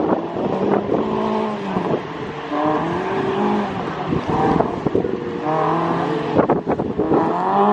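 Race car engines revving hard under acceleration, the pitch climbing and dropping back several times, with a couple of sharp knocks near the end.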